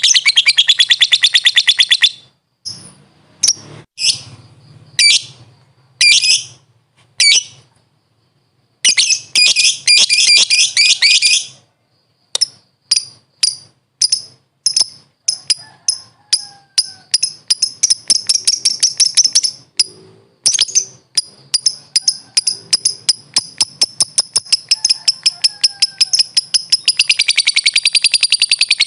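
Lovebird (Agapornis) calling in series of sharp, high chirps: a fast run at first, a few short separate bursts with gaps, another fast run, then single chirps that come quicker and quicker until they merge into one long continuous chatter near the end.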